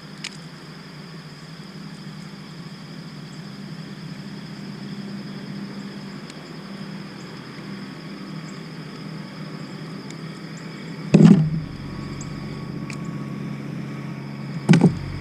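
Steady low outdoor rumble with a constant high-pitched drone above it, broken by two loud knocks on the kayak, one about eleven seconds in and one near the end.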